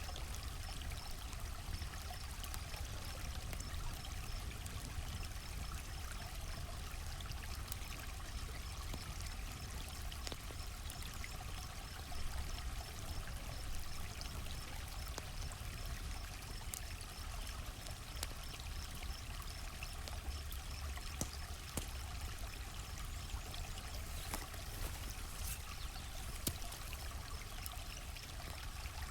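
Campfire crackling with scattered sharp pops over a low steady rush, with crickets chirping in a steady, even pulse behind it.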